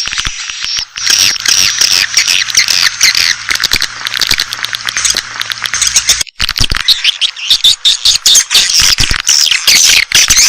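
Swiftlets twittering in a dense, continuous chorus of high chirps mixed with rapid sharp clicks, with a brief break a little past the middle: a swiftlet call recording of the kind played to lure swiftlets into a nesting house.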